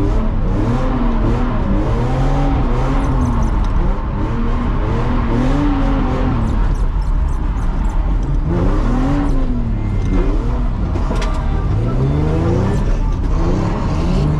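Nissan 350Z's 3.5-litre V6 engine revving up and down over and over as the car is drifted, its pitch rising and falling every second or two.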